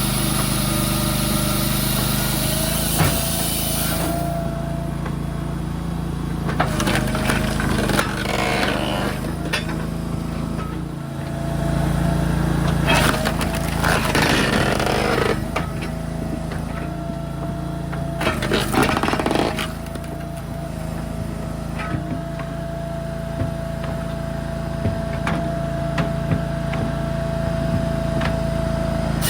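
An engine running steadily, with a held whine over it and a few short bursts of clattering and knocking.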